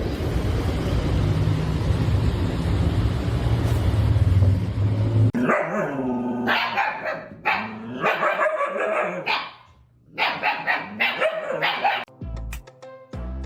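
A dog barking and yowling in a series of short calls whose pitch bends up and down, after about five seconds of loud rushing noise. Music with a steady beat starts near the end.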